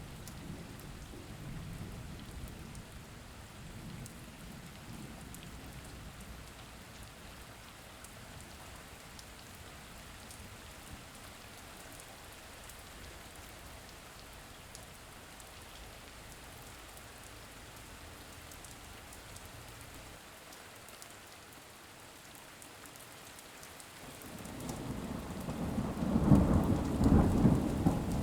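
Steady rain with rolling thunder; near the end a loud rumble of thunder builds.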